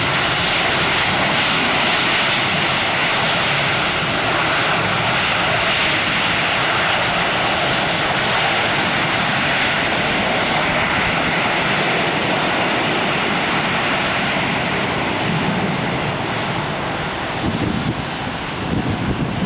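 Jet aircraft engines, a loud, steady rush that eases slightly near the end.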